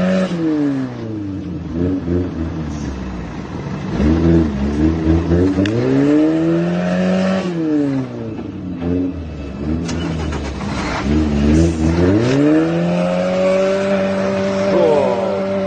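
Lada SUV engine revving hard under load while towing a heavy lorry on a strap. The pitch climbs and drops back twice, then climbs again about twelve seconds in and is held high to the end.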